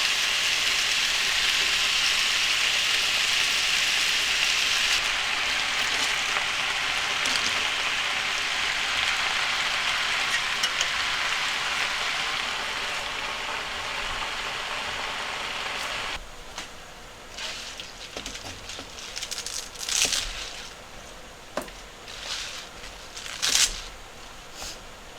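Steady hissing from cooking on a twin cassette-gas stove; it cuts off suddenly about sixteen seconds in. After that come scattered light clicks and knocks.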